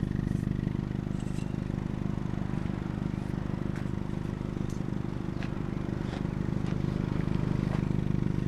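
Vehicle engine idling steadily, with a few faint clicks and scrapes over it.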